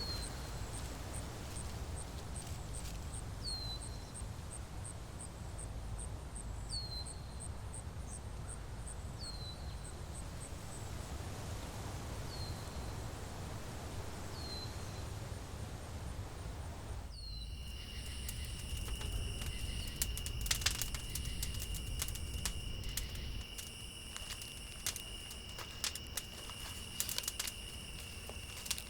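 Woodland ambience: an insect chirping in a fast, even pulse, with a short falling chirp repeated every few seconds. About two thirds of the way through, the sound changes abruptly to a steady high insect drone with scattered crackles and clicks.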